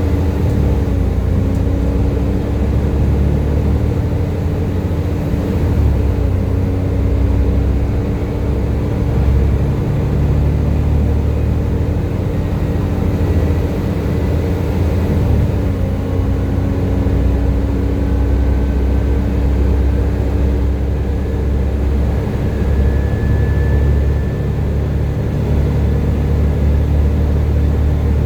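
Volvo B7TL bus's diesel engine running under way, with a steady whine that bus enthusiasts call its 'Hoover' sound, over a heavy low rumble. The whine drops slightly in pitch a few times as the bus drives.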